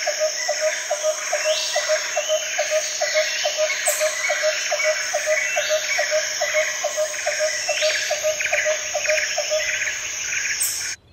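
A chorus of insects and frogs with bird chirps, led by a steady pulsing call repeated about four times a second. It cuts off suddenly near the end.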